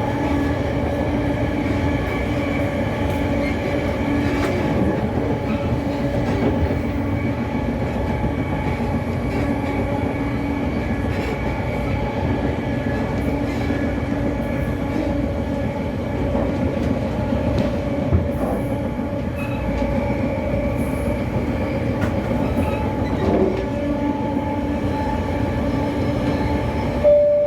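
Passenger train running steadily, heard from inside a carriage: a continuous rumble with a steady hum and occasional faint clicks of the wheels on the rails. A short chime of tones sounds right at the end.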